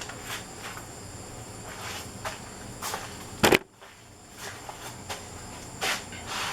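Workshop sounds during sanding: a steady low hum and a constant high thin whine, with scattered short rubbing or scraping noises and one sharp knock about three and a half seconds in.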